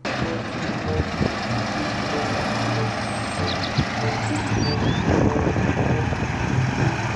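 A heavy eight-wheel dump truck's diesel engine runs with a steady rumble as the truck crawls over uneven ground.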